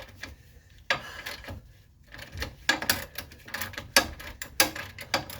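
Sharp metallic clicks and clanks of hand tools at work on a car's front suspension: a single click about a second in, then an irregular quick run of clicks from about halfway through.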